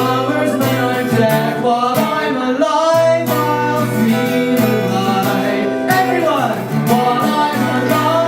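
Live acoustic guitar strummed to accompany a singing voice, with no break in the music.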